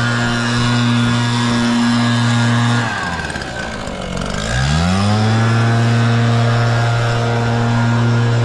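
Gas leaf blower's small two-stroke engine running at full throttle. About three seconds in the throttle is let off and the pitch falls, then it is opened up again and the pitch rises back to full speed.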